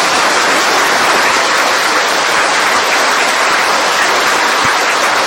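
Audience applauding: dense, steady clapping with no breaks.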